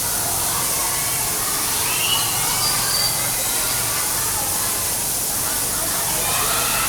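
Steady hiss of rain falling, with children's voices and a few high shrieks faint behind it.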